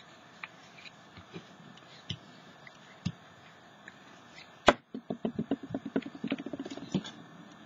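Handling noises from craft supplies while gluing a card to a canvas: a few light clicks and taps, a sharp click about four and a half seconds in, then a quick run of rhythmic pulses lasting about two seconds.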